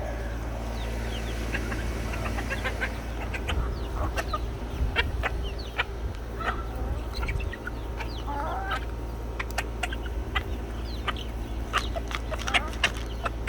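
Backyard chickens clucking and calling, many short sharp calls scattered throughout, over a steady low rumble.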